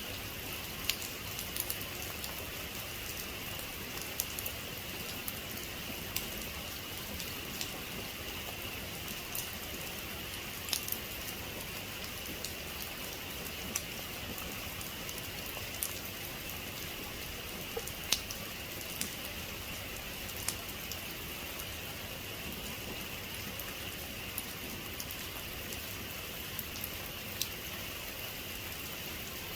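Heavy rain falling steadily, an even hiss with scattered sharp clicks of individual drops striking a hard surface.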